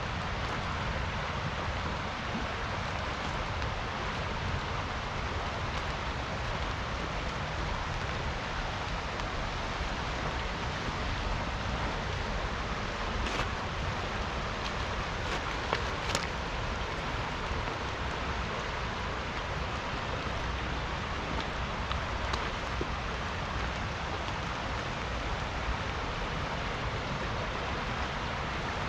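Steady rain falling, with a river rushing alongside; a few sharper drop ticks stand out about halfway through.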